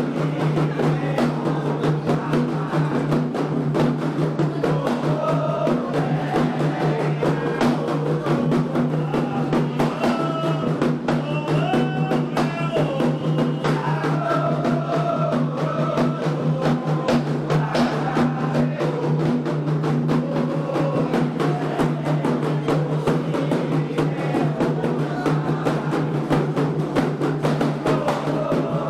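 Candomblé ritual music for a xirê: atabaque hand drums beat a steady, dense rhythm while voices sing over them, with a steady low hum underneath.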